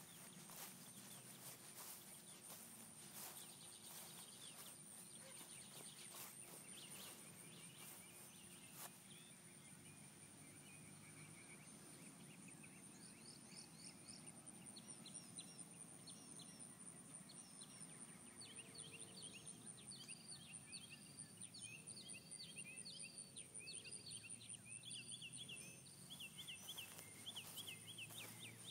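Faint outdoor ambience with a steady high whine. From about halfway, a bird sings runs of rapid, repeated chirps that grow denser toward the end.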